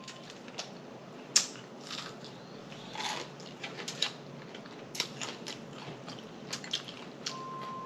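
Close-up mouth sounds of a person eating: chewing and lip smacking with irregular wet clicks. A short steady beep sounds near the end.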